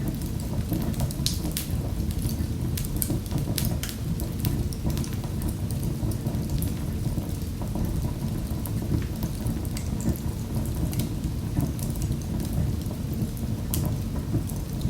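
Wood fire burning in a fireplace: a steady low rumble of the flames with sharp crackles and pops scattered irregularly throughout.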